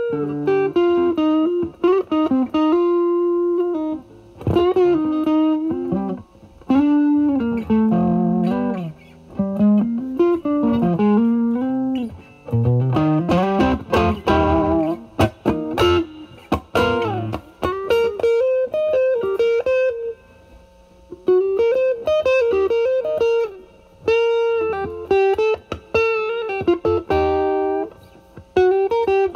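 Fender Stratocaster through a Vertex Steel String Clean Drive MK1 overdrive pedal at full gain into the drive channel of a Marshall Valvestate amp, playing blues lead phrases with string bends and vibrato, separated by short pauses. About halfway through there is a busier passage with several notes ringing at once.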